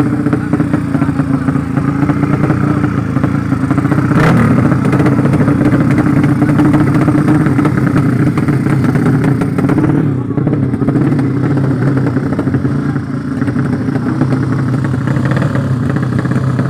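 Drag-racing motorcycle engine running at a steady speed, with one sharp knock about four seconds in.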